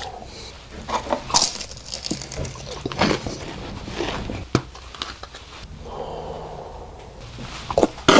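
Eating sounds close to the microphone: chewing and crunching with breathing, broken by short clicks.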